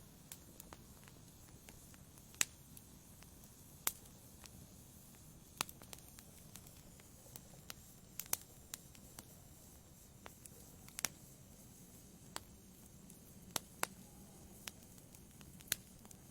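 Wood fire crackling in a fireplace: irregular sharp pops and snaps, about one a second, over a faint low hiss of the flames.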